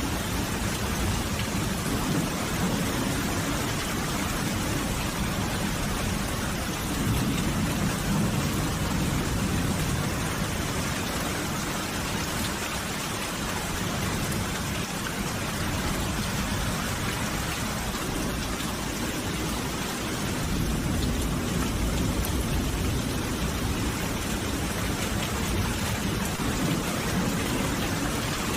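Steady heavy rainfall hissing and pattering. A low rumble, like distant thunder, swells twice: about a quarter of the way in and again about two-thirds through.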